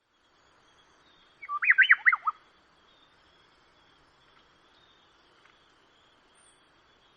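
A bird sings one short, loud phrase of rapid rising and falling whistled notes about a second and a half in, lasting about a second. Faint, thin, high calls of more distant birds sound behind it.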